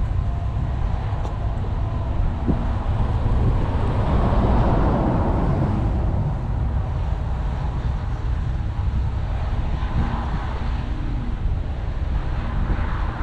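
A vehicle engine running with a steady low rumble, and a rushing noise that swells about four seconds in.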